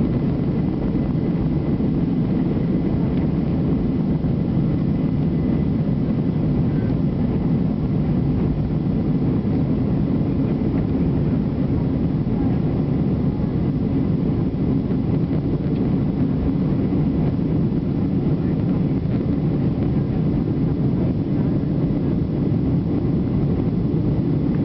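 Steady engine and airflow noise of a Boeing 737 airliner, heard from inside the passenger cabin, an even low rumble that holds level throughout with a faint steady whine on top.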